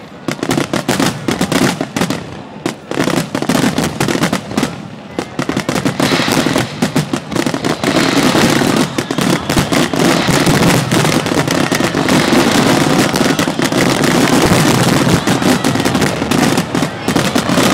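Star mine fireworks barrage: dense, overlapping launch thumps, bursts and crackles, fired in rapid succession. From about six seconds in they merge into an almost unbroken din.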